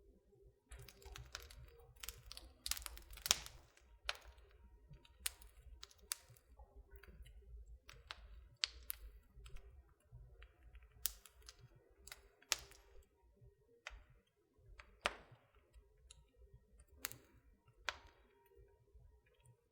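Wood fire crackling in a fireplace: irregular sharp snaps and pops, some close together, the loudest about three seconds in, over a faint low noise from the flames.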